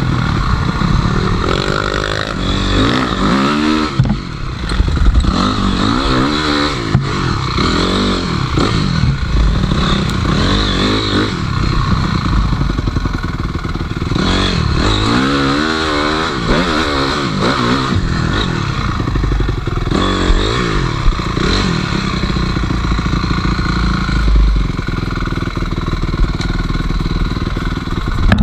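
Enduro motorcycle engine revving up and down over and over as the throttle is opened and shut on rough ground, with occasional knocks and clatter.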